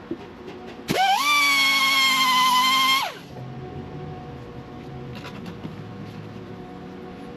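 Electric angle grinder spinning up with a quickly rising whine, running free at a steady pitch for about two seconds, then winding down.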